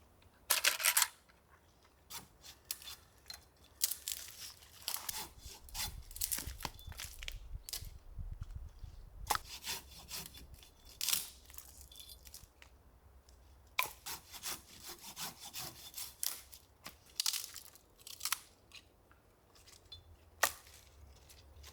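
Irregular scraping, crackling and snapping of small dry wood and tinder being worked by hand, as fire-starting material is prepared for a campfire.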